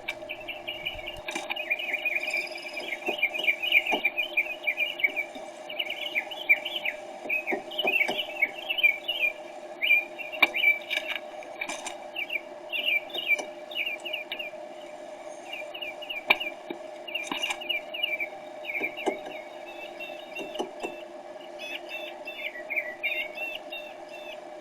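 Small birds chirping and twittering, many short calls overlapping, over a steady low hum.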